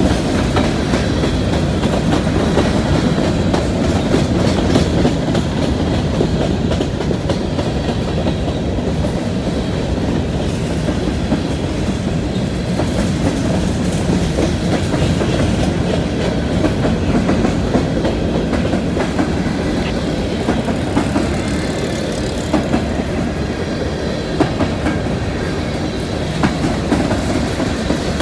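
Freight train of covered hopper cars rolling past, a steady rumble with the wheels clicking over the rail joints.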